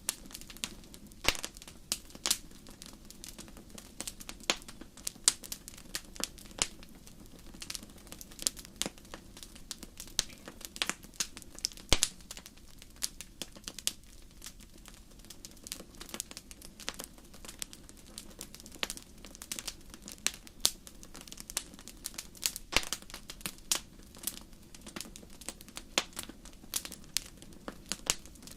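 Wood fire in a fireplace crackling: frequent irregular sharp pops and snaps over a soft steady hiss of burning.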